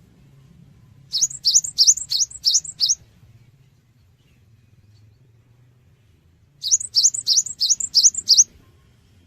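Cinereous tit (gelatik batu) singing two phrases of about six quick, high notes, each note sweeping upward. The phrases are about two seconds long with a pause of roughly three and a half seconds between them. A faint low hum lies underneath.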